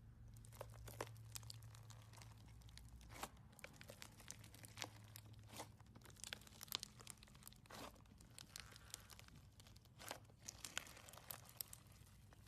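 Slime being squeezed and stretched by hand, giving off irregular small crackling clicks and pops over a faint low hum.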